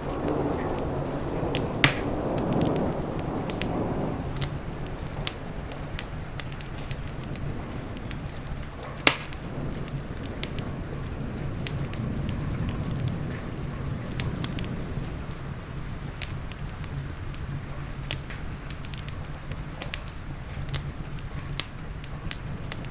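Wood fire crackling, with many small sharp snaps and two louder pops about two and nine seconds in, over a steady bed of rain. A low rumble swells and fades over the first few seconds.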